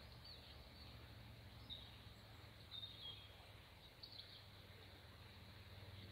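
Faint outdoor ambience with a few short, scattered bird chirps over a low steady background noise.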